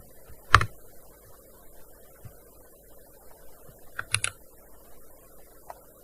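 Keystrokes on a gaming keyboard during slow, halting typing: one loud keystroke about half a second in, a quick run of three or four keys near four seconds in, and a few faint taps in between.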